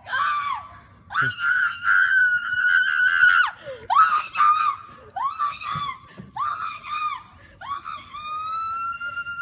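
A young woman's high-pitched screams of excitement: a string of short shrieks and long held screams, the last one held steady near the end.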